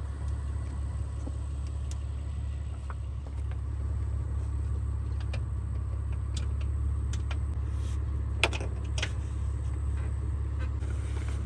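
Car's low steady rumble, with scattered small clicks and two sharper clicks about eight and a half and nine seconds in.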